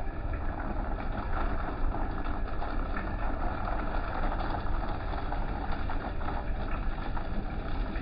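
Car wash running: a steady wash of machinery and water noise with a strong low hum.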